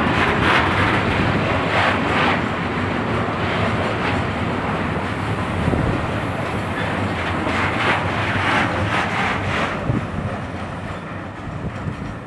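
Container freight train wagons rolling past with a steady rumble of wheels on rails and groups of clicks as the wheels cross rail joints. The sound sinks a little near the end as the train draws away.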